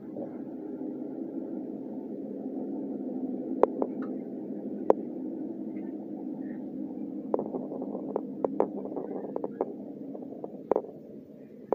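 TLK passenger train running, heard from inside the carriage: a steady low rumble with sharp clicks and knocks, a quick run of them about seven to ten seconds in.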